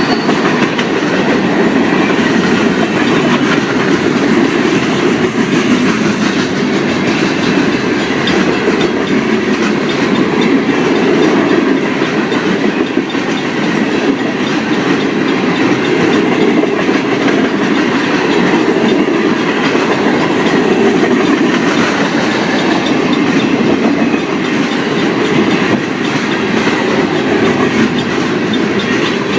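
Freight cars of a fast manifest train rolling past: a steady, loud rumble of steel wheels on rail with clickety-clack over the rail joints, mixed with strong wind on the microphone.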